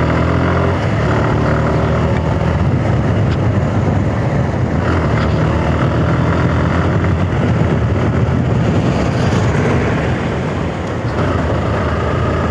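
Suzuki Gixxer motorcycle engine running hard while being ridden, with road and wind noise; the engine pitch climbs again near the end as it revs up.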